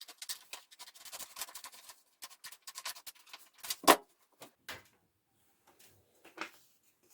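Scissors snipping and rustling through paper in quick cuts, then a single sharp knock a little before four seconds in, followed by a few faint handling clicks.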